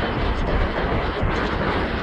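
Military train rolling past on Indian Railways track: a steady, loud rumble of coach wheels on the rails.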